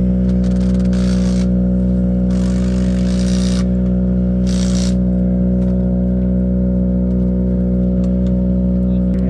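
Car engine idling at a steady, unchanging pitch, with three short bursts of hiss in the first five seconds.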